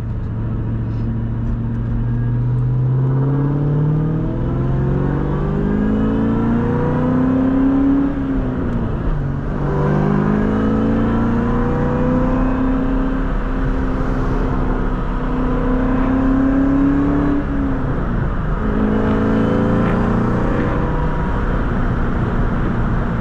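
2003 Mustang SVT Cobra's supercharged 4.6-litre V8 accelerating hard through the gears, singing: its pitch climbs for several seconds, drops at an upshift about nine seconds in, climbs again, and drops at another upshift around eighteen seconds in before pulling again.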